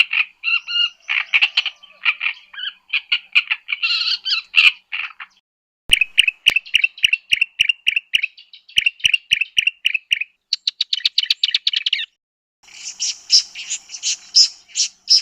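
Recorded southern African bird calls: several runs of quick repeated chirping notes, with a short break about five seconds in and another near twelve seconds, and a fast trill just before the second break.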